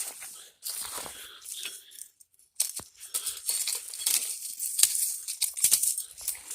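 Rustling and crackling of dry leaves and sticks being handled, with many small sharp snaps and a short pause about two seconds in.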